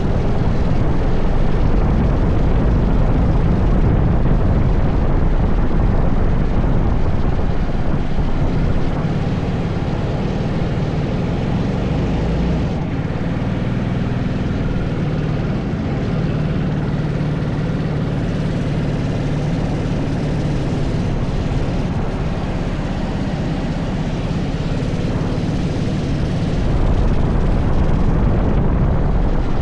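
80cc racing kart engine running continuously under load around a lap, easing off somewhat for a stretch in the middle and picking up again near the end.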